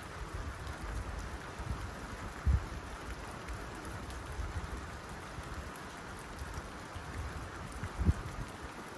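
Rain falling on a tin roof: a steady, even patter, with two louder low thuds, one about two and a half seconds in and one near the end.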